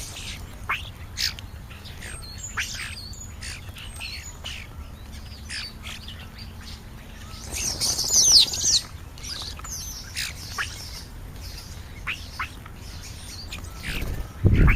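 Birds chirping and whistling, short high calls throughout with a louder burst of sliding whistles about eight seconds in. A thump near the end.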